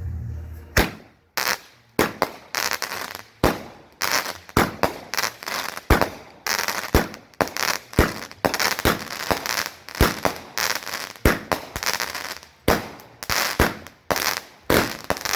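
A 16-shot, 200-gram consumer firework cake firing shot after shot, with about one or two sharp bangs a second, each followed by a short burst of crackle from the crackling mine effects.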